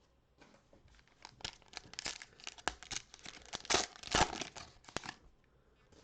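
Trading card pack wrapper being torn open and crinkled, a dense run of crackling that builds to its loudest around four seconds in and stops about a second before the end.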